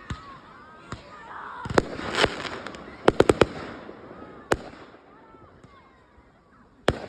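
Display fireworks shells bursting with sharp bangs, some with a crackling hiss after them, including a rapid run of four reports about three seconds in; the bursts thin out toward the end.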